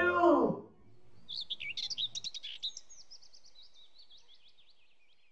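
Small birds chirping, a fast run of high chirps and trills that thins out toward the end. The tail of background music dies away in the first half second.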